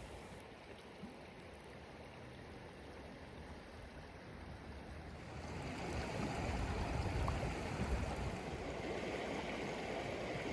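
A stream's running water rushing steadily, growing louder about halfway through.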